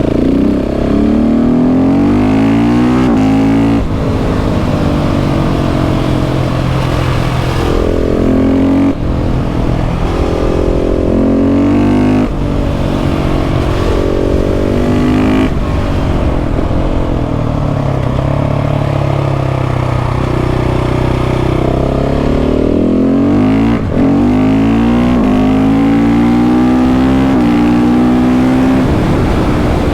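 KTM 690 SMC R's single-cylinder engine pulling hard under a rider, its pitch climbing through each gear and dropping sharply at each upshift, several times over. Midway it settles into a steadier, lower note for a few seconds before accelerating hard through the gears again.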